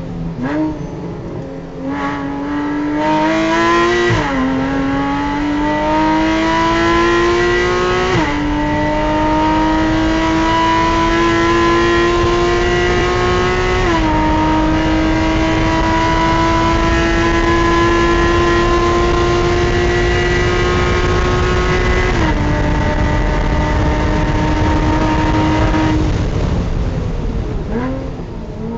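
Porsche Cayman race car's flat-six engine heard from inside the cockpit at full throttle, the pitch climbing through each gear with upshifts about 4, 8, 14 and 22 seconds in. Near the end the revs drop off as the car slows, with a short blip on a downshift.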